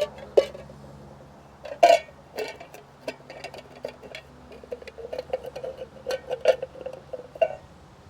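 Small metal parts clicking and clinking as the float bowl is fitted back onto a snowblower's carburetor, with a run of quick rattling ticks in the second half.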